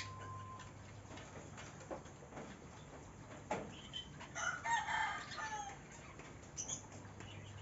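A chicken calls once past the middle, a pitched call of about a second and a half, against faint scattered ticks and clicks.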